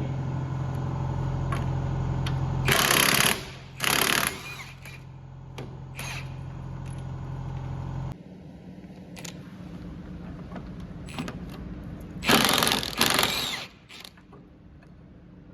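A power tool run in short bursts of about a second, with a steady low machine hum under the first part that cuts off about eight seconds in.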